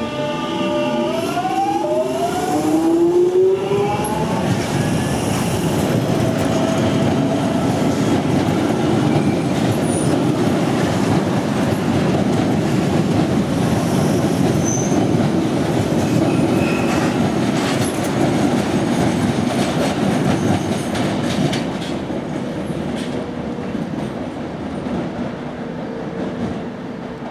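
A train passing close by on the rails: a rising whine over the first few seconds, then a loud running rumble with wheel clatter over the rail joints, fading over the last few seconds.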